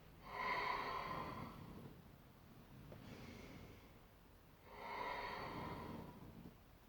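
A woman's paced breathing during exercise: two long, louder breaths about four and a half seconds apart, with a fainter breath between them.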